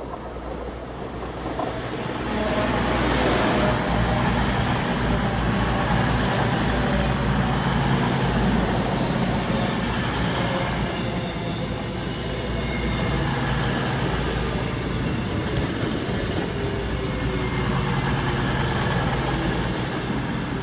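Coupled CrossCountry Class 220 and Class 221 Voyager diesel-electric multiple units pulling into the platform, their underfloor diesel engines droning steadily. The sound grows louder about two seconds in as the train draws alongside.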